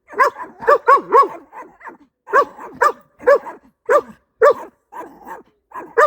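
Two neighbouring dogs barking back and forth in a steady run of short barks, about two a second, some loud and close and some fainter.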